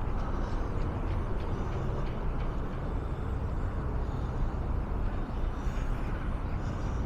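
Steady road traffic noise from cars passing on a busy road.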